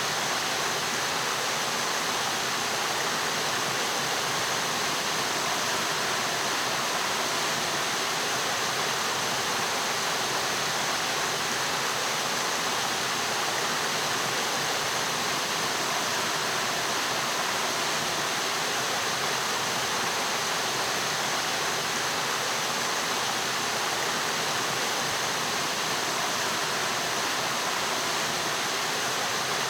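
Steady, unbroken rush of flowing water in a mountain stream.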